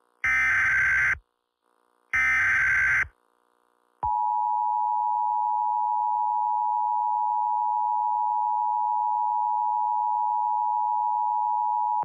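Emergency Alert System tones. First come two one-second bursts of the screechy digital SAME header, which warbles between two high tones and is the data that carries the alert code. After a second's pause, the EAS attention signal starts: two tones sounded together, held steady for eight seconds and cut off sharply.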